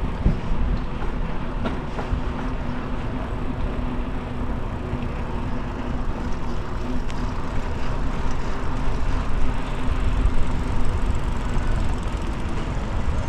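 Wind rushing over the microphone of a moving bicycle, a steady low rumbling noise with small gusts, along with rolling noise from the ride.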